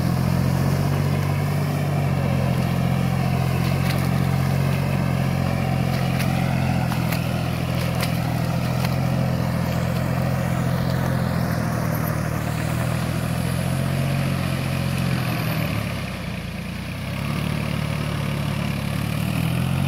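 John Deere 5045D tractor's three-cylinder diesel engine running steadily. Its note drops and quietens for about a second near the end, then picks back up.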